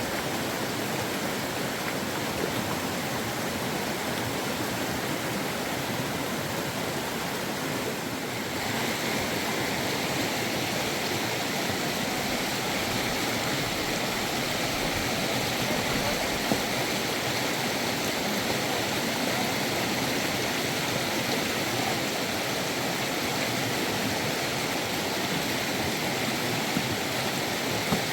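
Fast-flowing river water rushing steadily, with a continuous hiss of moving water; the tone turns slightly brighter about eight seconds in.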